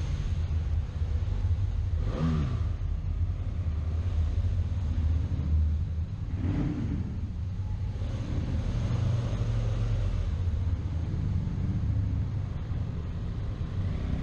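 Motorcycle engine running under steady throttle with wind rush, heard from the bike while riding a long curve, with brief rises and falls in pitch around two and seven seconds in.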